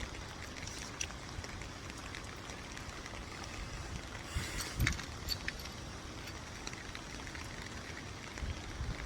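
Steady outdoor background rush, with a few short clicks and knocks about halfway through.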